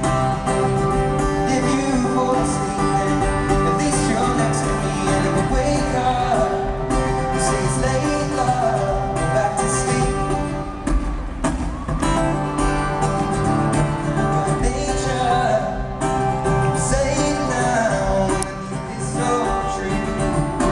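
Live concert music: acoustic guitar with sung vocals, heard through an audience recording.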